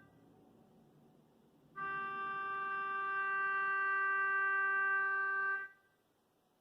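Car horn sounding one long, steady blast of about four seconds, starting a little under two seconds in.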